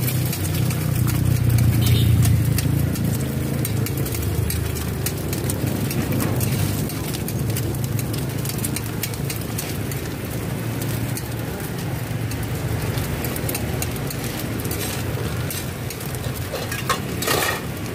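Bột chiên (fried rice-flour cake cubes) and eggs sizzling in oil on a flat griddle pan, with metal tongs stirring and tapping against the pan, over a steady low rumble that is loudest early on and eases off.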